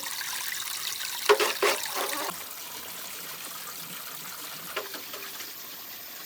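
Water trickling, with a few louder splashes about a second in and a smaller one near the end.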